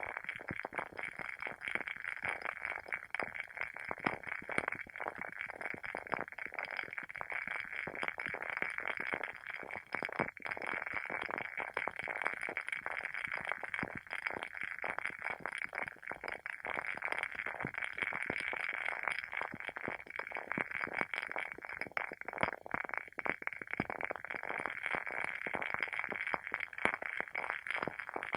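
Wooden wick of a WoodWick candle burning with a steady, dense crackle of many small, quick pops, like a tiny campfire.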